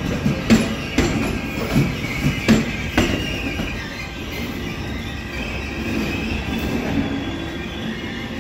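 NJ Transit train with an ALP-46A electric locomotive rolling past over rail joints, the wheels clicking about twice a second. From about three seconds in the clicks give way to a wavering high wheel squeal over a steady rumble as the train moves off.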